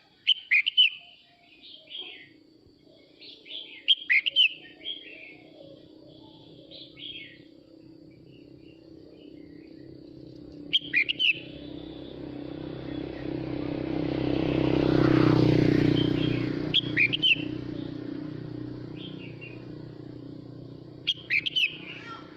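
Male red-whiskered bulbul singing short, bright whistled phrases, repeated every few seconds, typical of its calling song. A vehicle's engine hum swells and fades through the middle as it passes.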